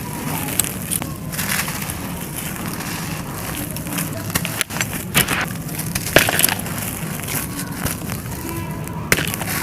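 Dry, brittle clay-like material being crushed and crumbling: continuous crackling with several sharp snaps, the loudest a little past the middle.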